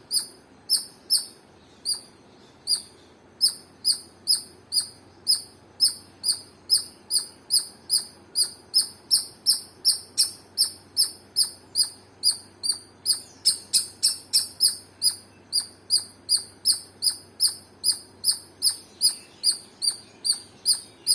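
A squirrel's chirping alarm call: short, high-pitched chirps repeated steadily at about two to three a second, with a brief gap near the start.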